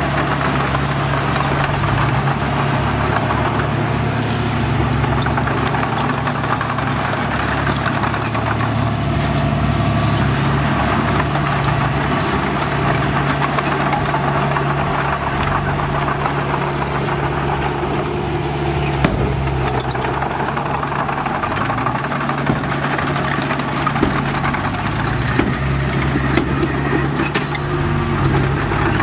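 Heavy diesel engine of earthmoving machinery running steadily, its pitch shifting a little with load. A few short sharp knocks come in the second half.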